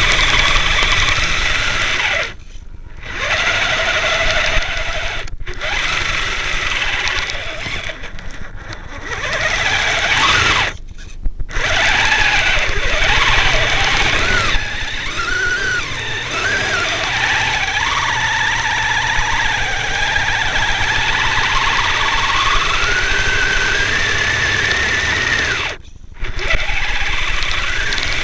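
Kyosho Blizzard SR RC snowcat's brushed electric motor and drivetrain whining, the pitch rising and falling with the throttle over a steady noisy rush. It cuts out briefly several times when the throttle is let off.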